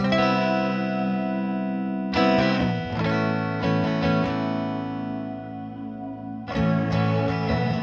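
Electric guitar chords played through the Big Ear Pedals Albie multi-effect pedal, giving a lush, washed ambient tone. Three chords are strummed, one at the start, one about two seconds in and one about six and a half seconds in, and each rings out and slowly fades.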